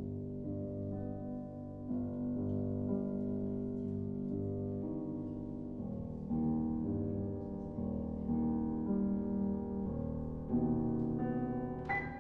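Live chamber music led by piano: sustained chords and notes that change every second or so, with a brighter struck note just before the end.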